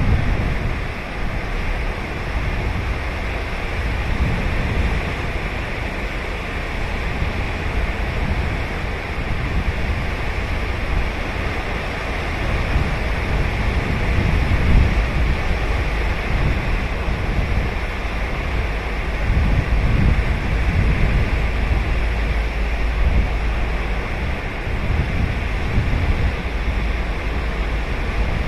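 Ocean surf washing onto a sandy beach: a continuous rush of breaking waves with a deep low rumble, swelling and easing gently.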